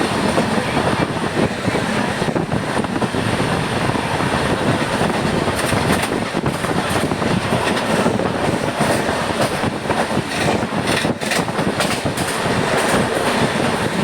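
Passenger train running steadily on the rails, heard from on board: a continuous rumble and rush of wheels and track noise, with scattered sharp clicks from about halfway through.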